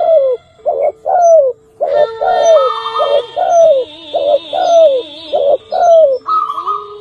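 Zebra dove (perkutut) cooing: a rapid run of short notes, each falling in pitch, broken by two brief pauses in the first two seconds.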